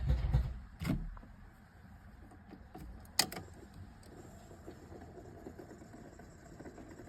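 A few faint clicks and knocks, a sharp one about a second in and a louder one about three seconds in, with quiet in between.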